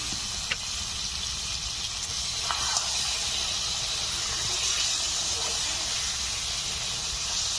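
Chicken curry sizzling and hissing steadily in a wide metal pan as the masala is fried down with a little added water, with a metal spatula briefly scraping the pan a couple of times.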